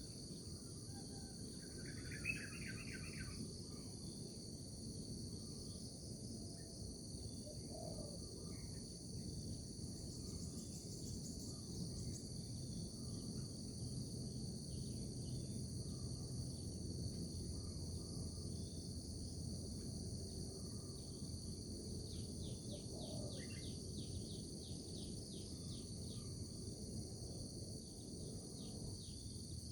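Steady high insect chorus over a low, even hiss, with scattered bird chirps and a quick trilled call about three quarters of the way through.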